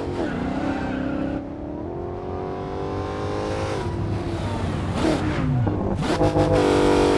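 Dodge Challenger SRT Hellcat's supercharged V8 accelerating. The engine note climbs steadily through the first half, drops back, then holds loud and high near the end.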